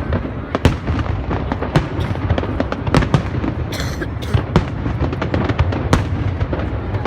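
Fireworks display: many sharp bangs and cracks of bursting shells in quick, irregular succession over a continuous low rumble, with a brief hiss a little before the middle.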